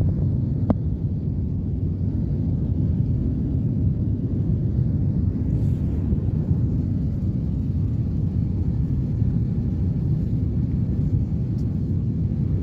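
Jet airliner cabin noise during takeoff: a steady, loud rumble of the engines and airflow, with a single short click about a second in.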